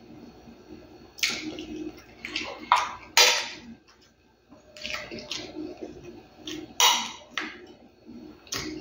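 A man chewing food with his mouth close to the microphone: irregular wet smacking and squelching bursts, several a second at times, with short pauses between.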